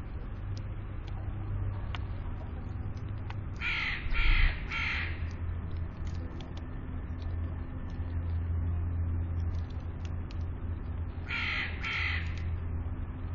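A crow-family bird calling with harsh caws: three about four seconds in and two more near the end, with a low thump during the first group. A steady low hum runs underneath.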